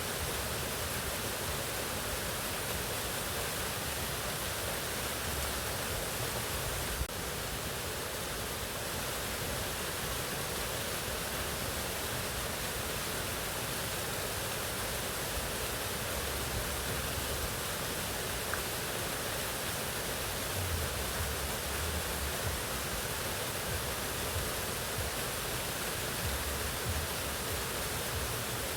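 Mountain waterfall: water pouring and splashing in a steady, even rush. A single brief click about seven seconds in.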